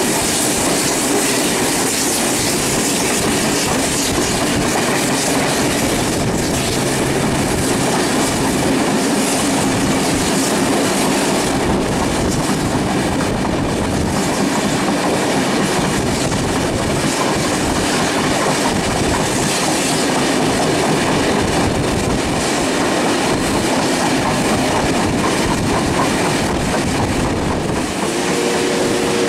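Passenger train hauled by Garratt steam locomotive 6029 running at speed, heard from on board: a steady, loud rolling noise of wheels on rail with clickety-clack over the rail joints.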